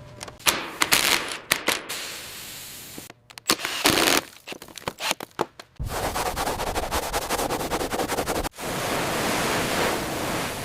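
Scattered sharp knocks and short noisy bursts, then from about six seconds in a fast, continuous mechanical rattle of rapid evenly spaced strikes.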